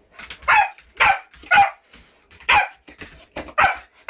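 A puppy barking at soap bubbles: about five short, sharp barks at uneven intervals.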